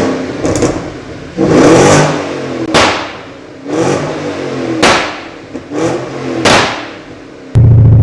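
Tuned Porsche Cayenne with a full aftermarket exhaust and remapped pop-and-crackle tune, blipped about six times in quick succession, each rev falling away with sharp exhaust pops and cracks. Near the end a loud, steady engine note cuts in suddenly.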